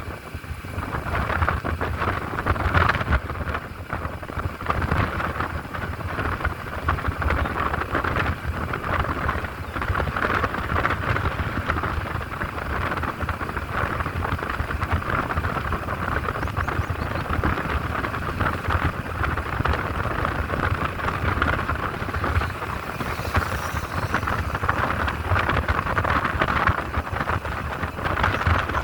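Steady wind rush and low rumble on the microphone of a moving motorcycle, with road and engine noise underneath.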